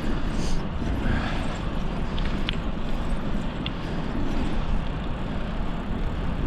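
Wind rushing over the microphone of a moving bicycle, with tyre and road noise underneath: a steady low rumble with no pauses.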